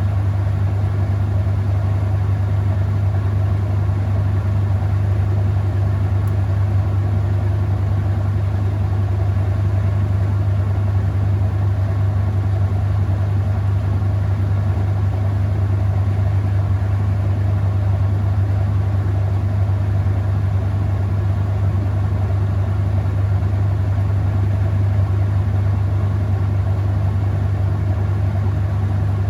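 Whirlpool top-load washing machine in its final spin: the motor and spinning drum give a steady, even hum.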